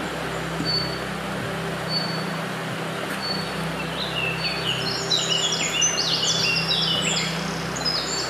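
Songbird singing: a short high whistle repeated every second or so, then a fast tumbling run of falling notes from about four seconds in until near the end.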